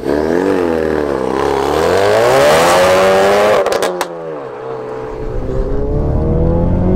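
Modified Mk3 Ford Focus RS's turbocharged 2.3-litre EcoBoost four-cylinder accelerating away. The revs climb, then drop suddenly about four seconds in with a couple of sharp cracks as it changes gear. The engine note then climbs steadily again, heard from inside the cabin.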